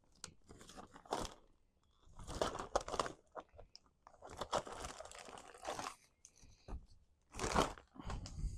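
Paper and craft supplies being handled and rummaged through: irregular crinkling, rustling and scraping in short bursts.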